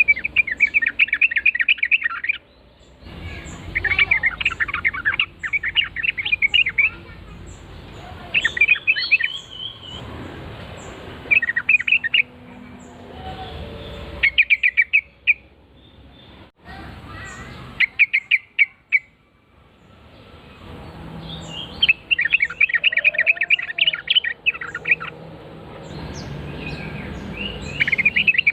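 Yellow-vented bulbul song: repeated bursts of quick, bubbly chattering notes, each burst one to three seconds long, with short pauses between them.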